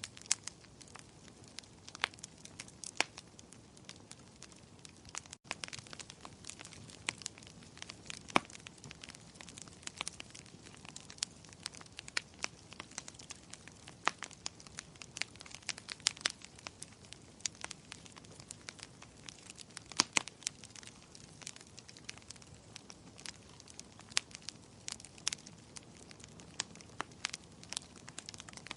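Wood fire in a fireplace crackling: irregular sharp pops and snaps, some loud, over a low steady rush of burning.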